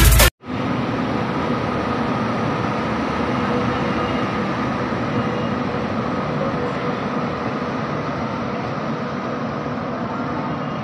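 A passenger train hauled by a WAP-7 electric locomotive rolling slowly along the platform track, a steady rumble of wheels and coaches that slowly fades.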